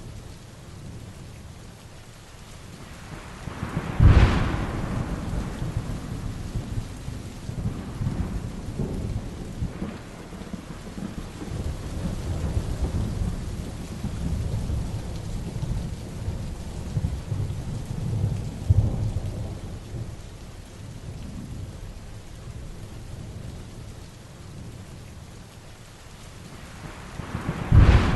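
Heavy rain falling steadily, with thunder: a loud crack about four seconds in that rolls on into rumbling, lighter rumbles through the middle, and another sharp clap near the end.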